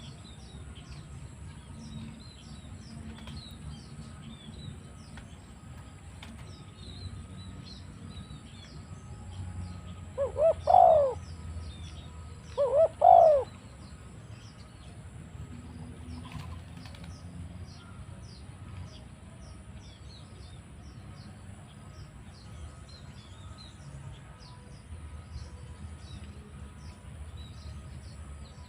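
Spotted dove (tekukur) cooing two loud phrases about three seconds apart, each a few short rising-and-falling notes, over faint high chirping that goes on throughout.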